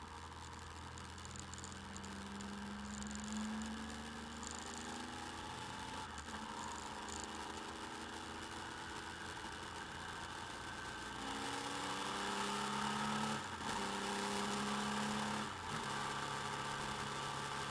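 Motorcycle engine running steadily, then rising in pitch and getting louder as it accelerates about two-thirds of the way in, with two brief dips in the sound late on.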